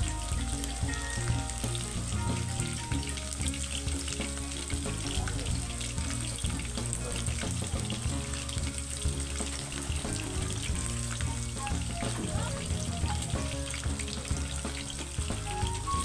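Batter-coated chicken pieces sizzling and crackling steadily as they fry in shallow oil in a non-stick kadai.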